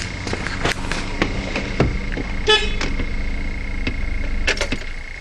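Steady vehicle hum with scattered clicks, and one short horn toot about halfway through.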